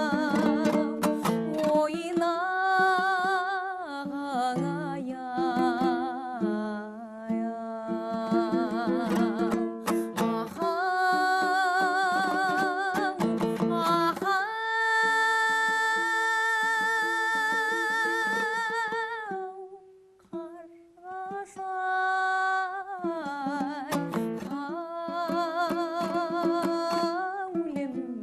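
A woman singing a Kazakh lyrical song with wide vibrato over a plucked string accompaniment. About halfway through she holds one long note for some five seconds, then breaks briefly before the next line.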